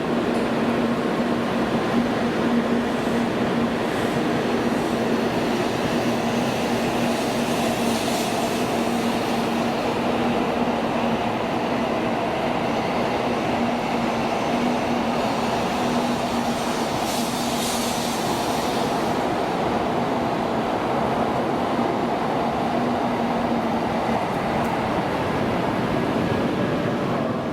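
Tokaido Shinkansen train running on the line: a steady rail rumble with a held low hum that stops about 24 seconds in.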